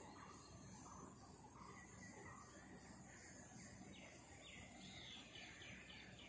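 Faint bird chirping over a steady high hiss, with a quick run of short chirps from about four seconds in.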